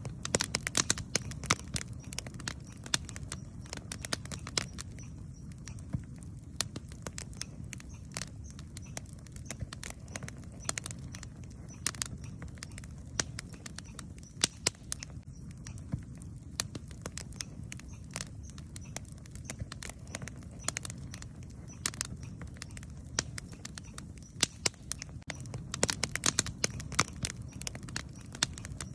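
Wood campfire crackling: irregular sharp pops and snaps over a low, steady rush, with denser clusters of pops about a second in and again near the end.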